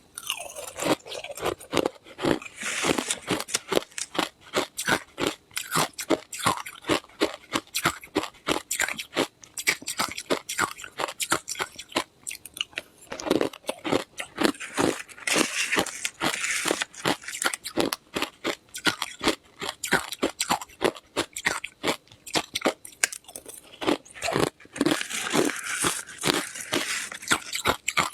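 Ice being bitten and chewed close to the microphone: rapid, crisp crunches several times a second, coming in denser bouts as fresh pieces are bitten, with quieter chewing between.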